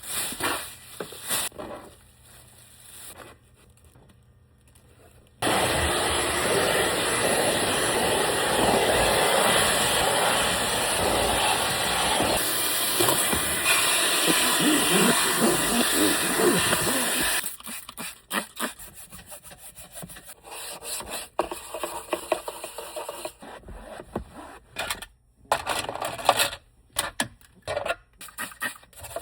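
A Dyson vacuum cleaner runs steadily for about twelve seconds, switching on and off abruptly, as it sucks up dog hair from the car interior. Irregular scratchy rubbing and brushing strokes follow.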